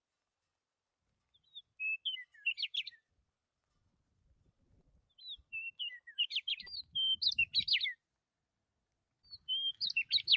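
Songbird singing in three short phrases of quick, varied chirps and whistles, each a second or two long, with pauses between.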